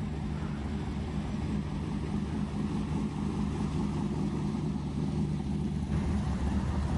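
A car engine idling steadily, a low hum that grows a little louder in the second half.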